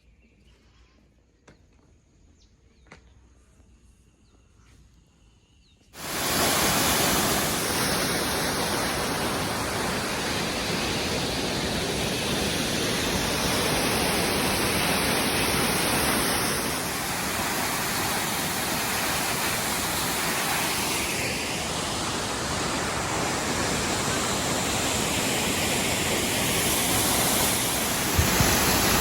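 A few seconds of near quiet with faint clicks. Then, about six seconds in, a loud, steady rushing noise starts abruptly and holds evenly.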